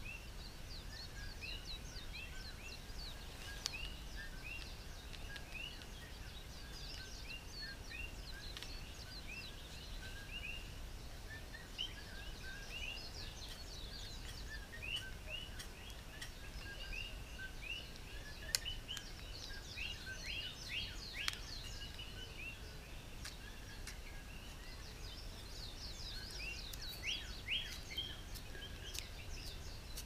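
Small birds chirping in short, repeated, falling notes over a low steady outdoor rumble, with a few faint clicks.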